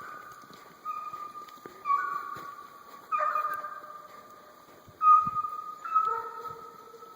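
Hunting hounds giving long, drawn-out howling cries, about six in a row, each held for around a second. In the second half two or more dogs cry at once at different pitches.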